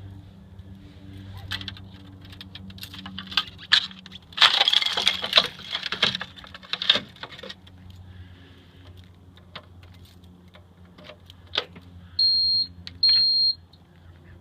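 Crackling and clattering as the ice-coated Caterpillar D3G dozer is handled before starting, with a louder stretch of crackling about four to seven seconds in. Near the end come two short, high, steady electronic beeps, over a faint low hum.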